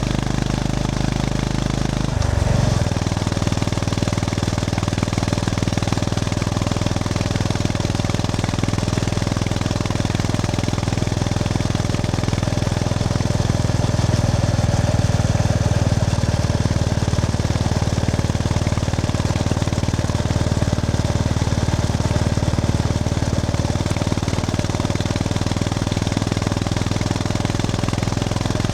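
Honda GB350S's air-cooled single-cylinder engine running with the bike under way. The engine note dips and picks up again about two seconds in, then holds steady.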